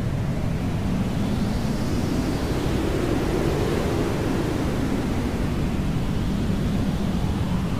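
Hair dryer running steadily: an even rushing noise, heaviest in the low range, whose tone slowly shifts.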